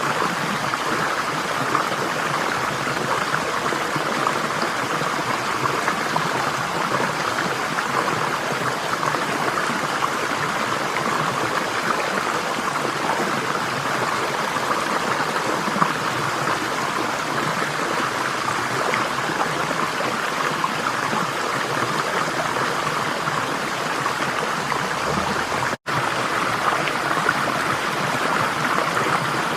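Running water flowing steadily, an even rushing and burbling with no let-up. Near the end it cuts out completely for a split second, then resumes.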